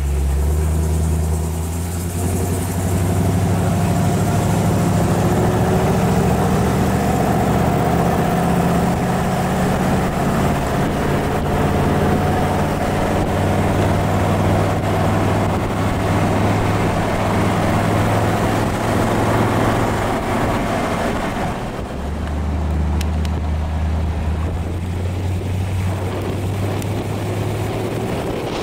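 1956 Ford Thunderbird's Y-block V8 running as the car drives, heard from inside the open car. The engine note climbs slowly over the first several seconds, dips sharply about three quarters of the way through, then runs steady again.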